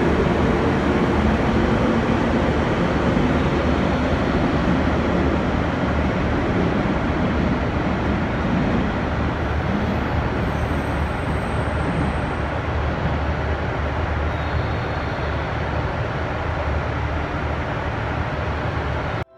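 A 413 series electric train pulling out and running away along the tracks: a steady rumble of wheels and motors that slowly grows quieter, with a hum in the first few seconds that fades.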